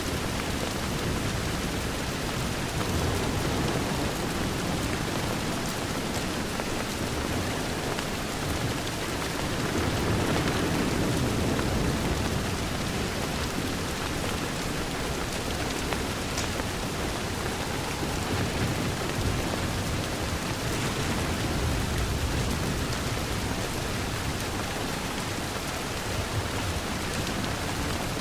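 Steady rain falling on a window, an even hiss with pattering drops. A low rumble of distant thunder swells about ten seconds in.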